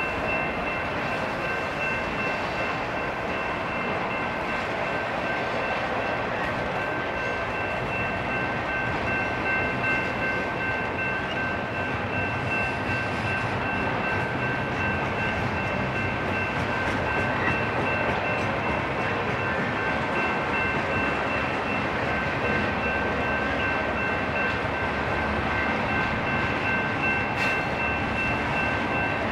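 Intermodal freight train rolling slowly past: a steady rumble of wheels on rail with a constant high-pitched squeal over it.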